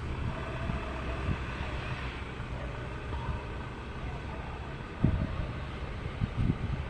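Low, steady rumble of an Airbus A330 taxiing on its engines at low power before takeoff, with a couple of dull knocks about five seconds in and again near the end.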